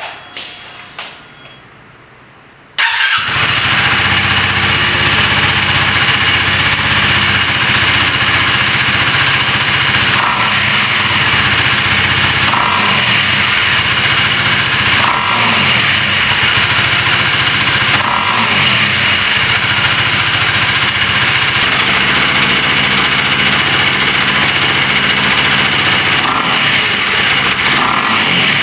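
Honda CL250's 249 cc single-cylinder engine starting after a few faint clicks, catching suddenly about three seconds in, then idling through its stock muffler with a deep, low exhaust note and a few slight rises and falls in pitch.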